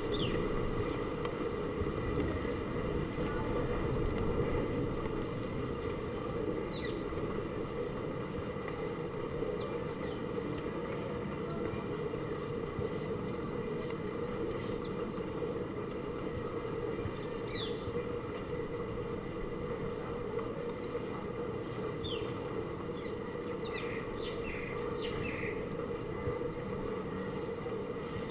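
Steady rush of hard rain and strong typhoon wind, with a few short high-pitched chirps over it.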